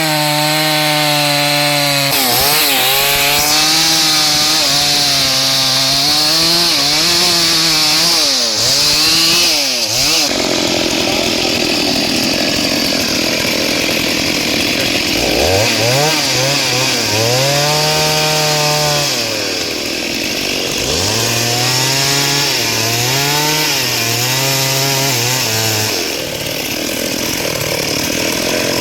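Two-stroke chainsaw cutting wood at high revs, its engine pitch repeatedly dipping as the chain loads up in the cut and climbing back. For several seconds in the middle the clear engine note gives way to a rougher cutting noise, then returns.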